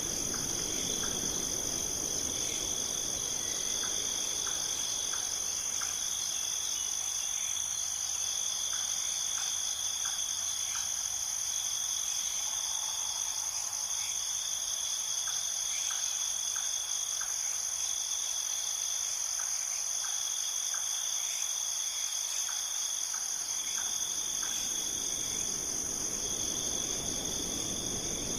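Insects, crickets or similar, trilling in a steady, continuous high-pitched chorus, with faint short chirps recurring in small clusters.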